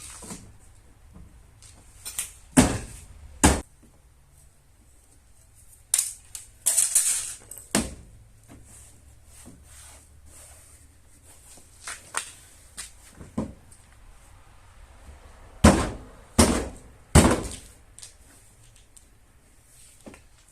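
Irregular sharp knocks and clanks of metal tools against metal, some seconds apart, with a short scraping rattle about seven seconds in and a quick run of three knocks near the end.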